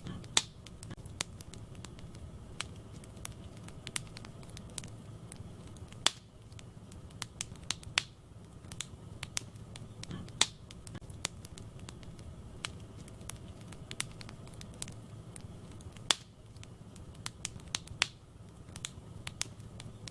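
Wood fire in a fireplace crackling and popping: irregular sharp snaps of burning logs, several loud pops among many smaller ones, over a steady low rumble of the flames.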